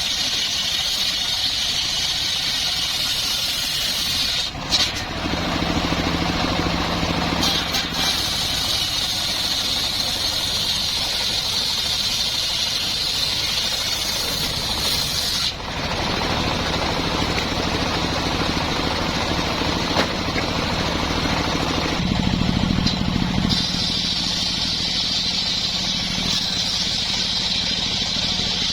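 Engine-driven wood saw running continuously, with a steady high whine over the engine, its note and load shifting several times.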